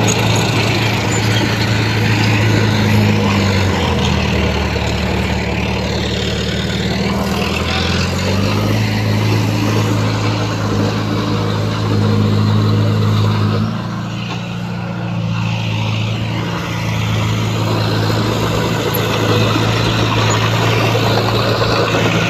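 Bulldozer's diesel engine running under load while pushing fill. Its pitch drops about four seconds in and rises again about eight seconds in.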